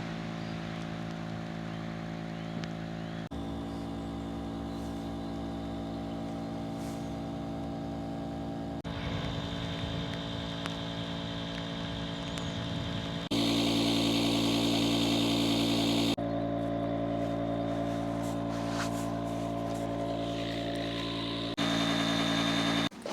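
A motor running at a steady speed, heard in several segments that cut abruptly from one to the next. The segment a little past halfway is the loudest and has an added hiss.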